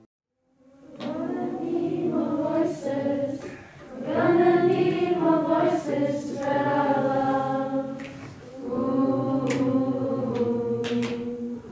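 A choir singing three long-held phrases, starting about a second in after a moment of silence.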